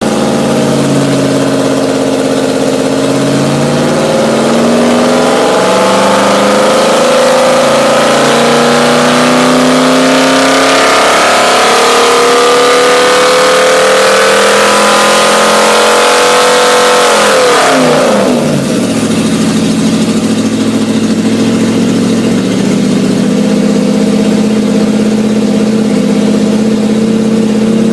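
Alfa Romeo 8C 2300's supercharged straight-eight engine running on a dynamometer. Its revs climb slowly for most of the run, drop quickly about two-thirds of the way through, then settle to a steady lower speed.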